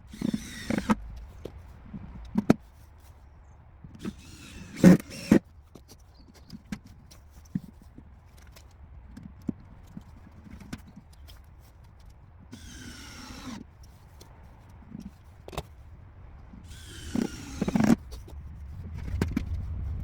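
Cordless drill driving four screws into a wooden corner block, four short whirring bursts that waver in pitch, with knocks and wood-handling clicks between them.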